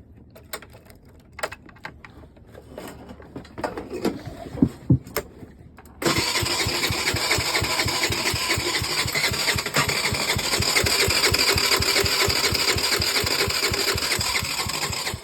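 A few clicks and knocks, then about six seconds in the Tao Tao 50cc moped's electric starter cranks the engine steadily, with an even rapid pulsing, for about nine seconds before stopping abruptly; the cold engine turns over but does not catch.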